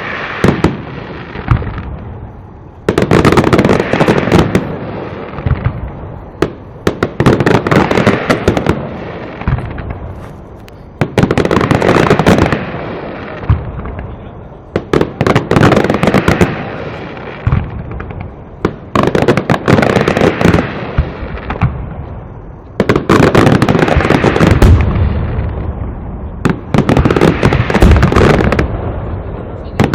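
Aerial fireworks display going off in dense volleys of bangs and crackling, a new volley starting about every four seconds.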